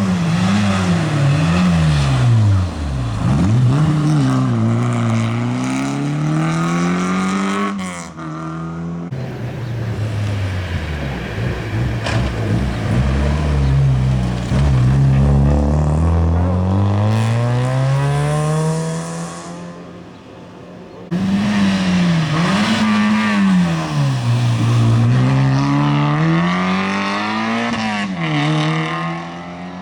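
Rally cars driving hard on a stage: engines revving up and falling back again and again through gear changes, braking and acceleration as they pass. Three separate passes, cut off abruptly about 8 seconds in and again near 21 seconds.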